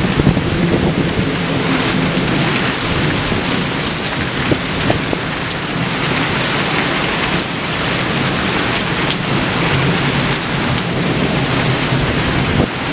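Steady heavy rain falling, a continuous hiss with scattered sharp drop ticks on nearby surfaces.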